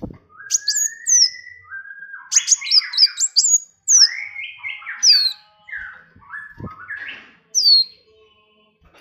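Songbirds singing a busy song: sharp, high whistles that slur downward, over lower rising and warbling notes, in quick phrases broken by short pauses.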